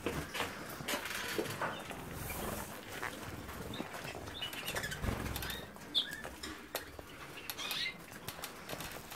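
Canaries fluttering and flapping about in their cage, with scattered light knocks and a few short high chirps.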